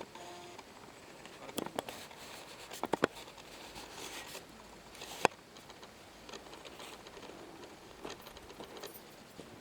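Rustling with a handful of sharp snaps or clicks: a few close together about two and three seconds in, and the loudest single one about five seconds in.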